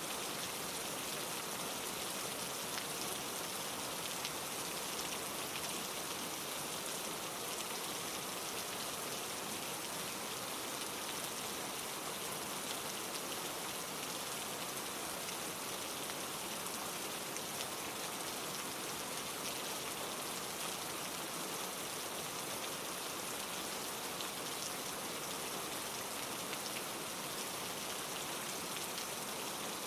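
Steady rain falling: an even hiss of many small drops, without change or pause.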